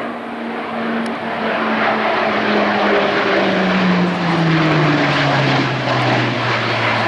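Northrop Grumman E-2 Hawkeye's twin turboprop engines and propellers during a low fly-past, the propeller drone falling steadily in pitch as the aircraft passes and moves away.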